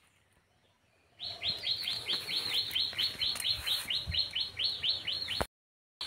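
A bird calling: a fast, even run of short falling chirps, about five a second. It starts about a second in and cuts off suddenly near the end.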